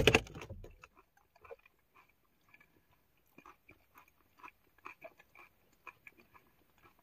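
Close-up mouth sounds of a person chewing crunchy food, onions and peppers, with small irregular crunches and clicks. A brief louder low thump comes at the very start.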